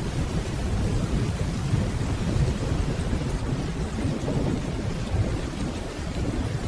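Steady rainfall with a continuous low rumble of distant rolling thunder underneath, holding level throughout.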